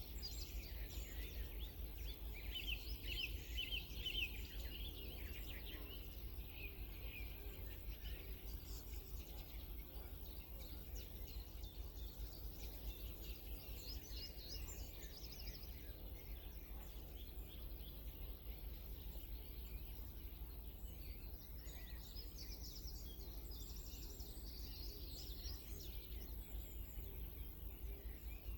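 Songbirds singing in repeated short chirps and trills, busiest in the first few seconds, again around the middle and near the end, over a steady low background rumble.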